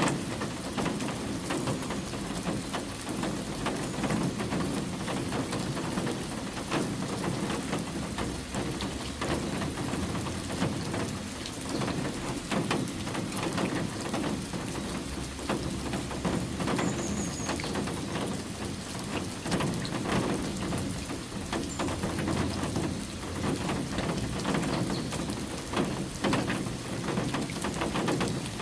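Steady rain falling, an even hiss with many separate drop hits scattered through it.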